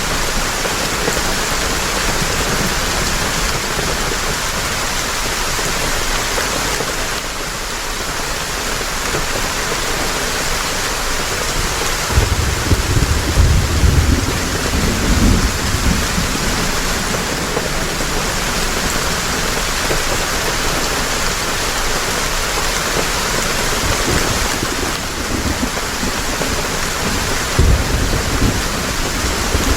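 Heavy rain falling steadily, with low rumbles of thunder about twelve seconds in and again near the end.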